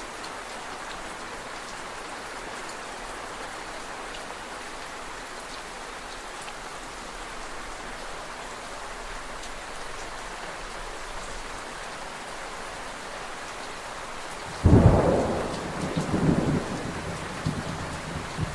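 Steady rain falling, with a sudden loud crack of thunder near the end that rolls on in rumbling waves.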